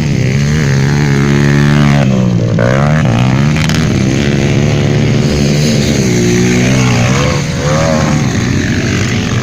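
150cc motocross bikes revving hard, their engine pitch climbing for about two seconds and then dropping sharply as one passes close, followed by more rises and falls as other bikes accelerate and shift.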